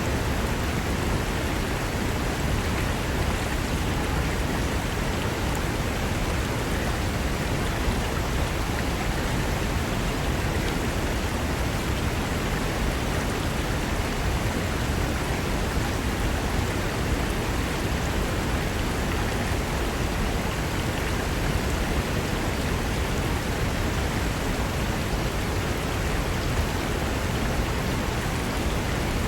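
Fast mountain river rushing over rocks: a steady, unbroken wash of water noise, heaviest in the low end.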